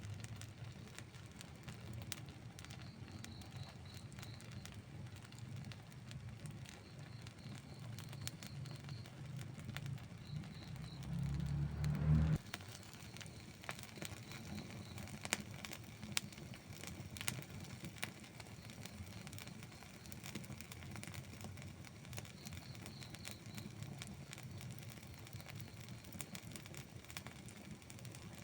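Outdoor wood campfire crackling, with scattered sharp pops over a low rumble. A louder low rumble swells from about ten seconds in and cuts off suddenly about twelve seconds in.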